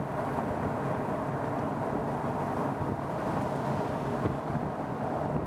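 Steady rumble of a vehicle being driven, road and engine noise with no sudden events.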